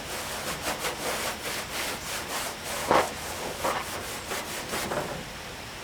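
Back-and-forth hand rubbing on the weathered painted steel body panel of a 1959 VW single cab truck, working the oxidised paint back to colour. A scratchy rasp of irregular strokes, a few a second, the hardest stroke about three seconds in, stopping near the end.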